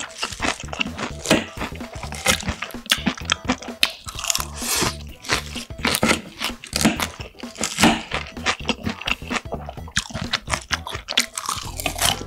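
Close-up chewing of crisp food, fried breaded pork cutlet and salad, with many quick crunches, over background music.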